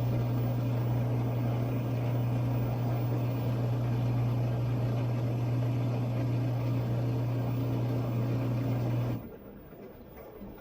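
Washing machine filling: water rushing in through the inlet valve with a steady low hum, then cutting off suddenly about nine seconds in as the fill stops.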